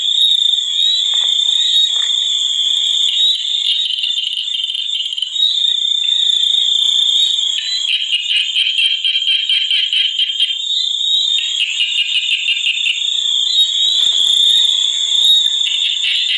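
Dense chorus of frogs and insects: a steady high trill runs throughout, with bouts of rapid pulsing calls that start and stop every few seconds.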